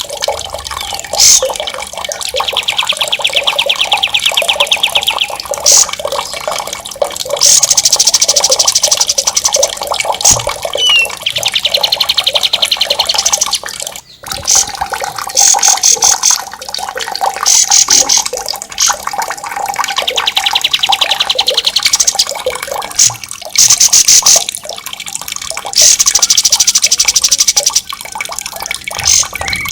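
Songbirds singing loud, sharp rolling trills: very fast runs of evenly repeated high notes lasting a few seconds each, with short breaks between. Under them runs a steady sound of flowing water.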